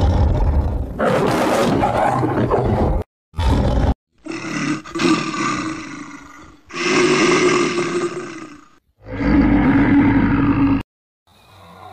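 A run of separate, hard-cut clips of a large animal roaring and growling: first a rough, noisy growl, then three long calls at a steady low pitch, each fading away, with sudden silent gaps between them.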